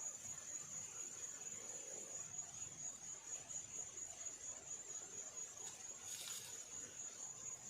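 Insects trilling in one steady, high-pitched drone, with a brief hiss about six seconds in.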